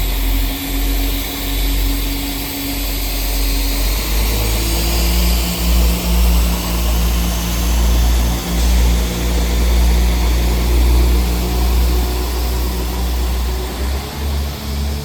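Class 172 Turbostar diesel multiple units pulling away under power, their underfloor diesel engines running loud and steady; the engine note shifts to a lower tone about four seconds in.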